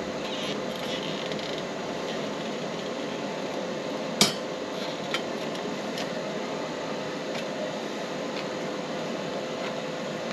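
Steady fan-like whooshing with a few sharp metallic clinks, the loudest about four seconds in, while stainless steel exhaust pipe is being tack-welded.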